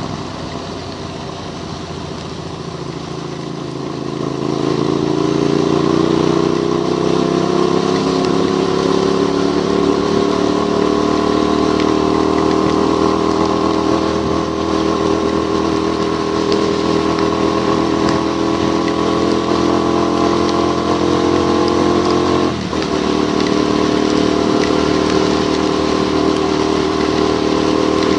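Motorcycle engine pulling up in pitch as it accelerates for a couple of seconds, then running steadily at cruising speed. About two-thirds of the way through it dips for a moment, like a gear change, before settling again. A constant hiss of wind and spray from the wet road runs underneath.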